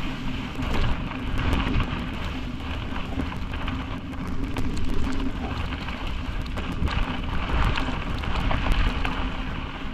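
Bicycle rolling over a rough gravel road: a steady rumble of tyres and wind on the bike-mounted camera, with many small rattles and clicks as the bike jolts over bumps.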